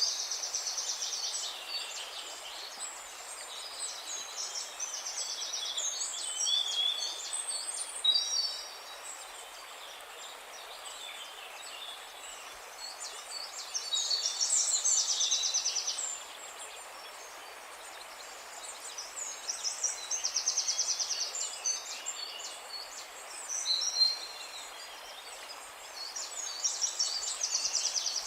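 Songbirds singing: high, rapid trilled and warbled phrases that come every few seconds, with quieter gaps between them, over a faint steady hiss of outdoor background noise.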